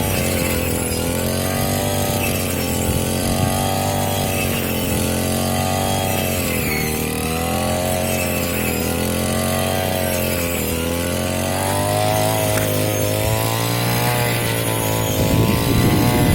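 Small engine of a handheld rice and grass cutting machine running hard, its pitch dipping and recovering every second or two. It grows rougher and louder near the end.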